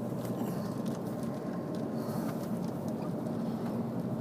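Steady road and wind noise inside a car's cabin as it drives along a highway in a snowstorm.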